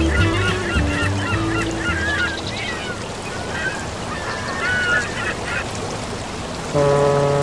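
Birds calling in a run of short, wavering chirps, over a piece of background music that fades out in the first couple of seconds. A new piece of music with steady held notes starts near the end.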